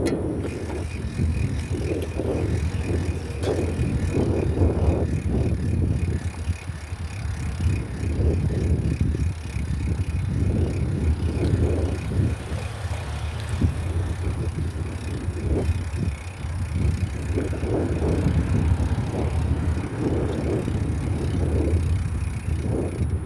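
Wind buffeting the microphone during a bicycle ride, in uneven gusts over a steady low rumble.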